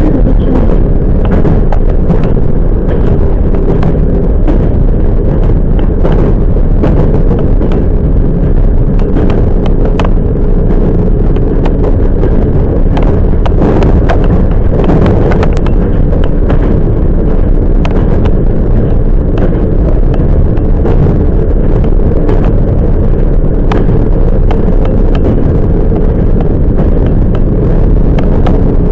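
Running noise of a Toyama Chiho Railway 10030-series electric train, heard from inside the car: a loud, steady rumble of wheels on rail with frequent irregular clicks and clacks from the track, and a faint steady hum underneath.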